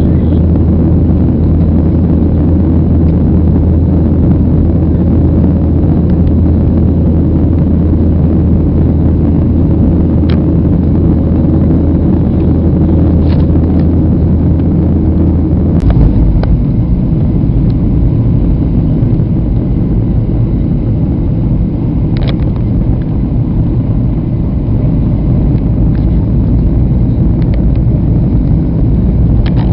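Airliner cabin noise: the steady low rumble of the engines and airflow. About halfway through there is a brief peak and the deepest part of the rumble shifts, with a few faint clicks along the way.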